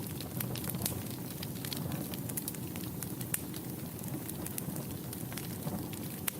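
Wood fire in a fireplace burning steadily, with a low rumble and irregular sharp crackles and pops.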